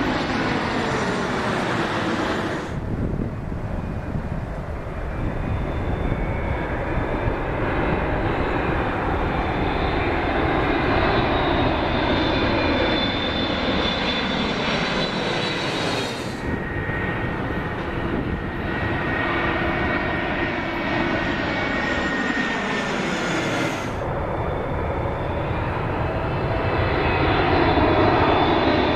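Jet airliner engines close by, a loud steady roar with high whining tones that slide downward in pitch as the aircraft passes. The sound shifts abruptly about three, sixteen and twenty-four seconds in.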